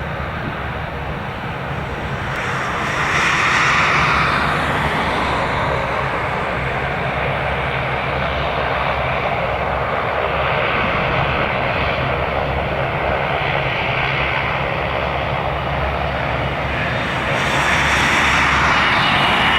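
Twin turbofan engines of a Cessna Citation CJ3 business jet running on landing, a steady noise that grows louder about three seconds in and again near the end.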